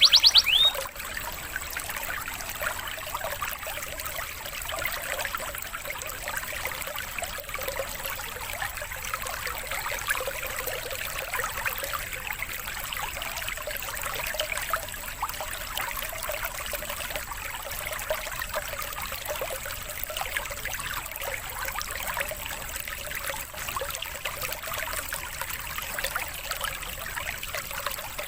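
Running water trickling steadily, like a small stream, with faint irregular splashy ticks. It is the water-therapy sound used in canary training recordings.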